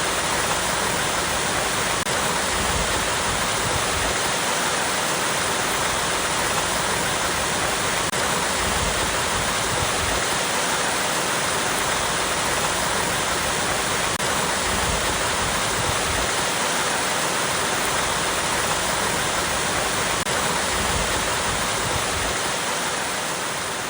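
Small waterfall cascading over rocks: a steady rush of flowing water, beginning to fade out near the end.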